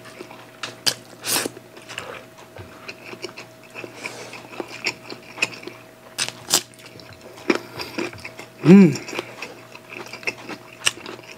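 Close-miked eating: chewing, crunchy bites of raw green mango, and wet mouth clicks and smacks. A short hummed "mm" comes about nine seconds in.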